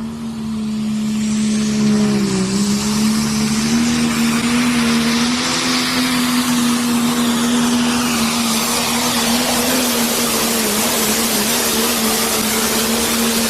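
Pro Stock pulling tractor's single-turbo 680-cubic-inch diesel engine at full power down the track. The engine note climbs over the first two seconds, dips briefly, then holds steady and loud.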